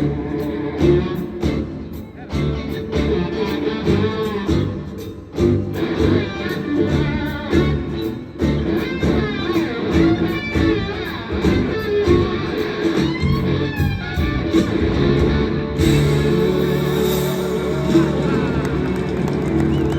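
Live blues band playing an instrumental passage: an electric guitar lead with gliding, bending notes over bass, drums and rhythm guitar.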